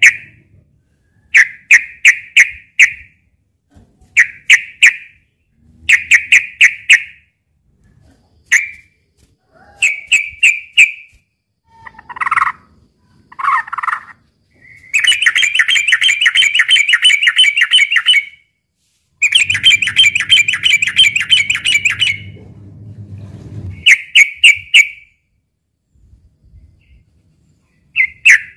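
Sooty-headed bulbul (trucukan) singing its aggressive fighting song: short, quickly repeated phrases of rapid notes, a couple of lower calls, and two long runs of fast chattering in the middle.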